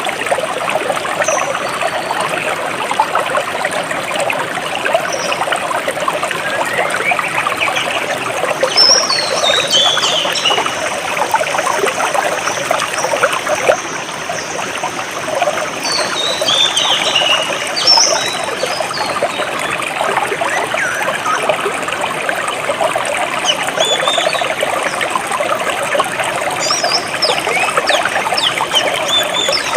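Jungle stream trickling and flowing steadily over rocks, with birds chirping above it: short high chirps throughout and a few quick falling runs of notes, about a third of the way in, just past halfway and again near the end.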